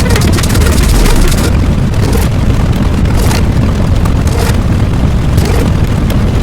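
Loud, distorted low rumble, boom-like, with short bursts of hiss about once a second after the first second and a half.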